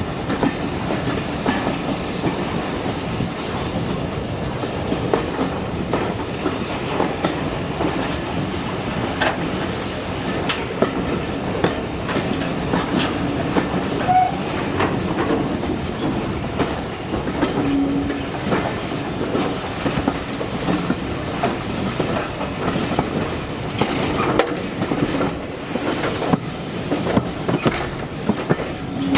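Railway train running along the track: a steady rumble with frequent, irregular wheel clicks over the rail joints.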